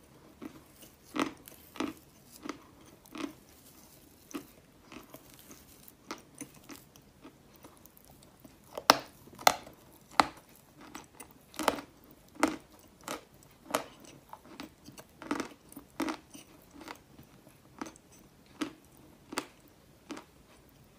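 A person chewing and biting crunchy black chalk: sharp crunches come one every half second to a second, loudest and closest together around the middle.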